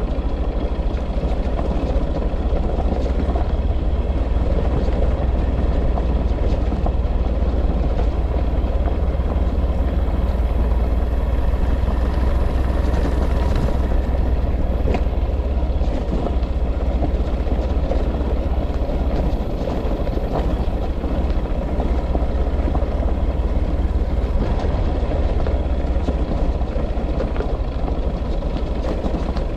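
A vehicle engine running steadily, a continuous low rumble with no breaks or changes in pace.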